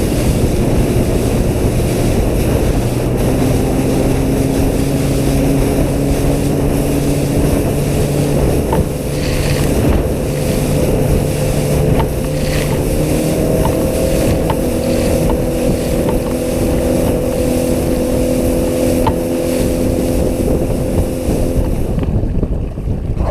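Boat motor running steadily, its pitch rising about halfway through, under heavy wind buffeting the microphone.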